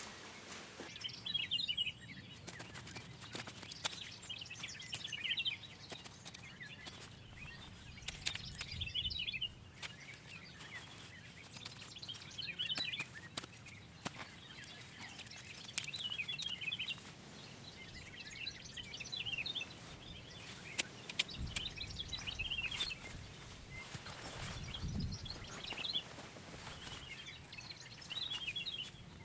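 Small birds chirping and twittering in short repeated phrases, faint, with scattered light clicks.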